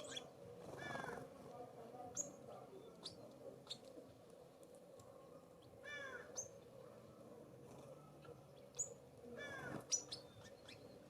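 California Scrub-Jay giving harsh, rasping calls three times, about a second in, midway and near the end, with short high chips from small birds in between.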